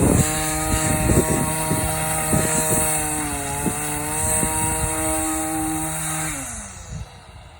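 A small motor running at a steady pitch with a hiss above it, dipping briefly about halfway and winding down to a stop near the end.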